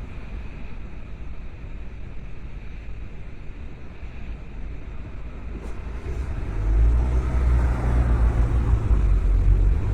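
Car driving, with steady road and engine noise. A deep low rumble grows much louder about two-thirds of the way in.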